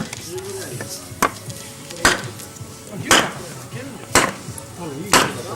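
Wood being chopped: sharp chops come evenly, about one a second, over a faint wavering tone.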